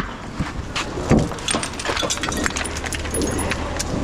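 Irregular light clicks and jangling rattles over the steady low rumble of a lorry engine running.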